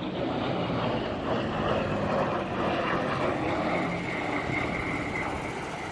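Steady drone of a propeller-driven WWII warbird's piston engine in flight.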